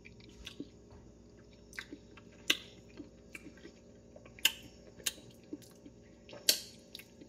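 Close-up chewing and lip-smacking of someone eating sauce-covered French fries with his fingers: irregular wet clicks and smacks, loudest about two and a half, four and a half and six and a half seconds in, over a faint steady hum.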